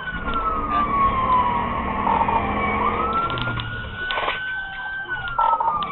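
Police car siren in a slow wail: its pitch slides down for about two and a half seconds, climbs back up until near the end, then starts falling again, over steady engine and road noise.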